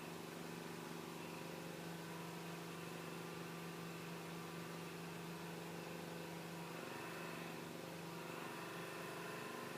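Faint steady machine hum with a few held tones over light hiss: room tone.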